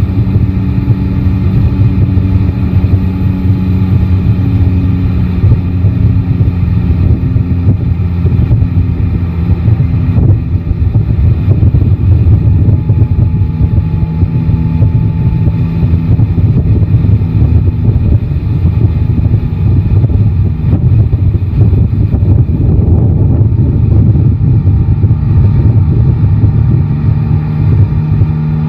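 Yamaha Tracer 9 GT's 890 cc three-cylinder engine running at a fairly steady cruise, its pitch shifting a little now and then, with wind rushing over the microphone.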